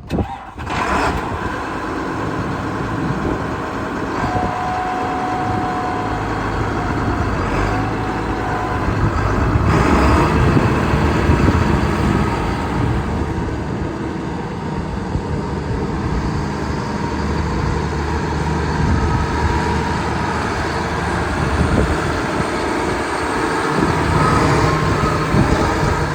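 Case IH MX220 tractor's six-cylinder diesel engine running steadily, swelling a little louder about ten seconds in and again near the end.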